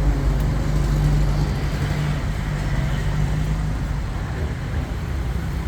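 Road traffic, with a motor vehicle's engine running as a steady low drone that eases off about four seconds in.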